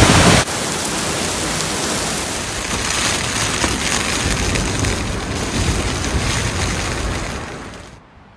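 Typhoon-strength wind blowing in a loud, continuous rush, easing off and fading away near the end.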